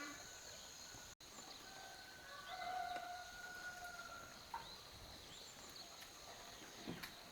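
Faint farmyard ambience: fowl calling a few times over a steady high-pitched hum, with a brief dropout about a second in.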